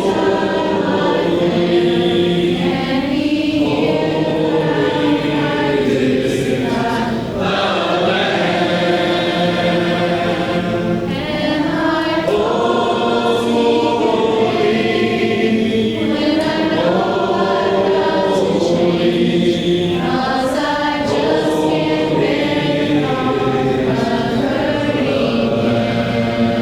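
A congregation of men and women singing a slow hymn together without instruments, in parts, with long held notes.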